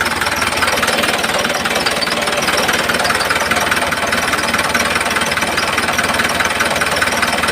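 Small DC electric motor running steadily with a fast, even buzzing rattle.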